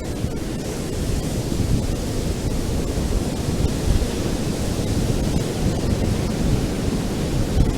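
Ocean surf washing onto a beach: a steady rushing noise, heaviest in the low end, with wind rumble on the microphone.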